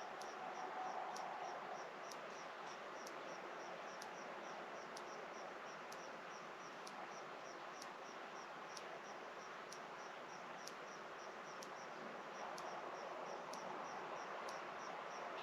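Rural outdoor evening ambience: a steady run of high-pitched chirps repeating evenly about two to three times a second, with a faint tick about once a second, over a soft even background hiss.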